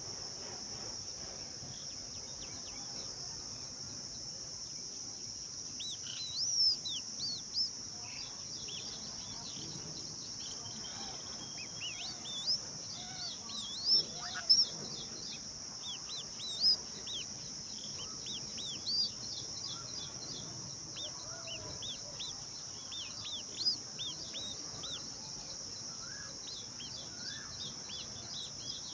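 Bulbul chirping in a run of short, high, quick notes that begin about six seconds in, over a steady high drone of insects.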